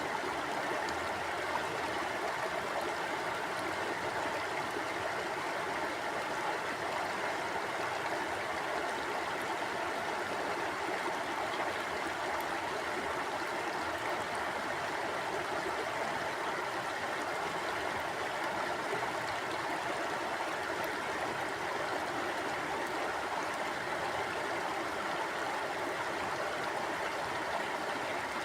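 Mountain stream flowing steadily over rocks, an even rushing of water with no let-up.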